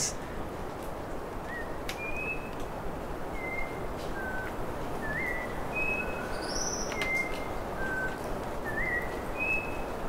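A bird singing a series of short, clear whistled notes, roughly one every half-second to second at varying pitches, some slurring upward, over a steady background hiss.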